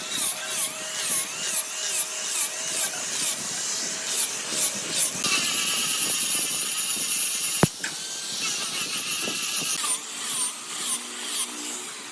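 Small high-speed power tool cutting wood, its pitch wavering up and down as the load changes. There is one sharp click about two-thirds of the way through.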